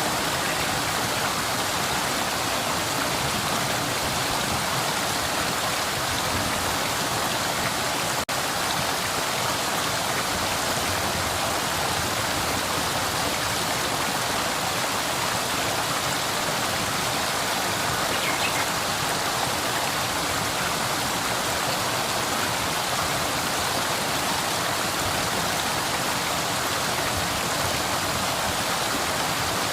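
Flowing river: a steady, even rush of water with no change in level.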